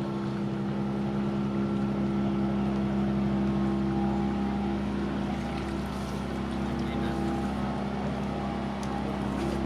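A motor boat's engine running steadily, a constant hum with an even pitch.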